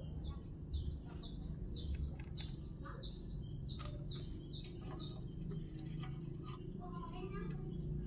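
A small bird calling: a quick series of over a dozen short chirps, each falling in pitch, about two and a half a second, which stops about six seconds in.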